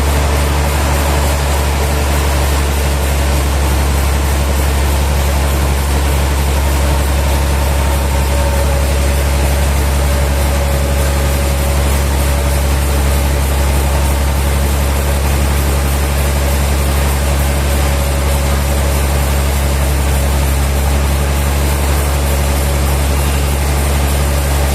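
Sawmill machinery running steadily: a strong, even low hum with a faint held tone above it, unchanging throughout.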